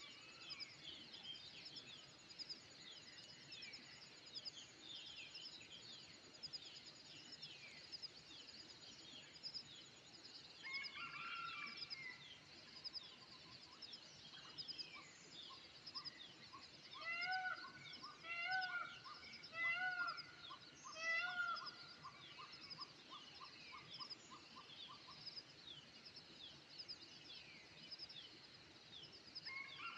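Birds chirping and calling over a steady, fast high-pitched chirping. A louder bird gives a short run of four calls in a row about two-thirds of the way through.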